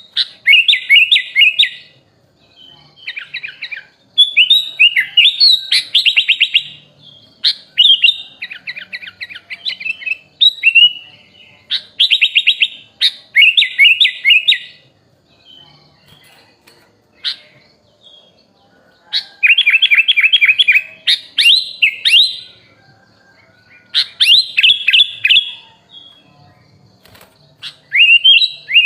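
Sooty-headed bulbul (kutilang) singing in loud bursts of fast, chattering whistled notes, each burst one to three seconds long with short pauses between. The song is laced with imitated phrases of other birds (isian).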